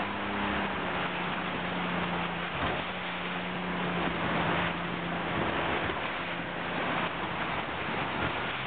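Wind rushing over the microphone and water washing past a boat, with a steady low hum underneath.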